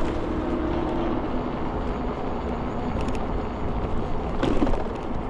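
Electric scooter riding: steady wind and road rumble on the microphone, with a faint steady hum that stops about a second in and a brief louder rattle about four and a half seconds in. The freshly replaced brake disc gives no squeal.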